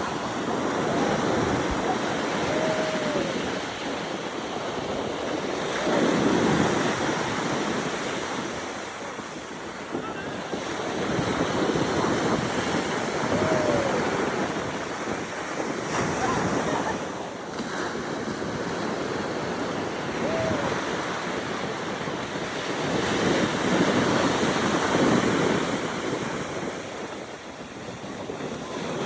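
Ocean surf washing onto a beach, rising and falling in slow swells every several seconds, with wind buffeting the microphone.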